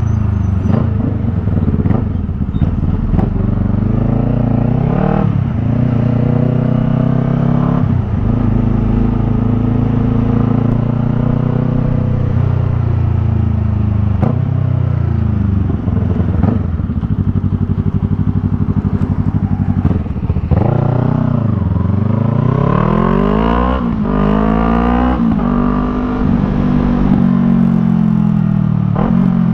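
Yamaha MT-03's 321 cc parallel-twin engine through a Jeskap R3 Cup aftermarket exhaust, pulling through the gears on the road. Its pitch climbs and drops back again and again, with short dips at each shift and some falling sweeps as it slows.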